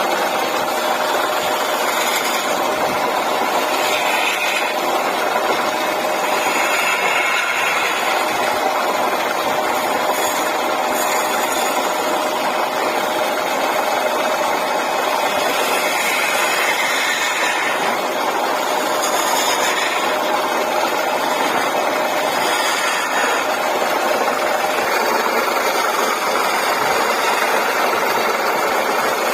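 Wood lathe running steadily with a constant hum and hiss, the sound brightening briefly every few seconds.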